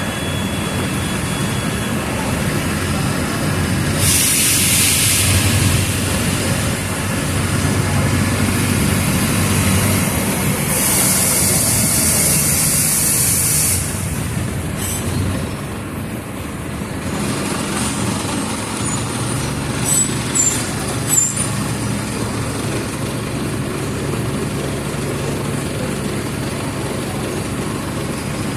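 Mercedes-Benz OF 1722M city bus diesel engine running. Air hisses twice from the bus's pneumatic system, a short burst about four seconds in and a longer one from about eleven to fourteen seconds. A few sharp clicks come near twenty seconds.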